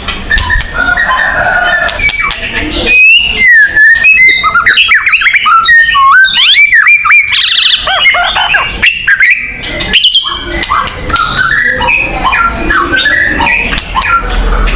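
White-rumped shama (murai batu) singing a loud, varied song of rapid whistles, sweeping up-and-down notes and harsh chattering, densest in the middle. This is a song-lure recording of the kind played to make caged shamas start singing.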